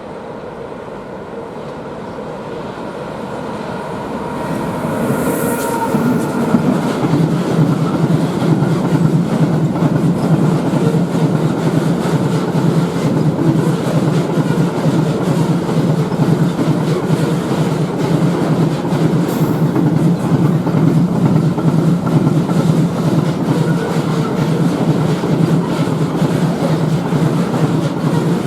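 Fast coal freight train approaching and then running past close by: the rising rush of the locomotive gives way about six seconds in to a long, steady rattle and clickety-clack of loaded coal wagons rolling over the rails.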